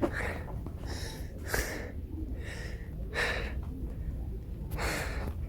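A person breathing audibly close to the microphone, a breath about every one and a half seconds, over a steady low rumble.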